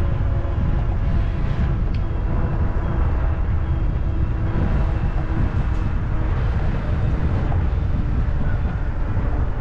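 Wind rushing over the camera microphone while cycling, with a faint steady hum underneath and an occasional light tick of the bike rattling.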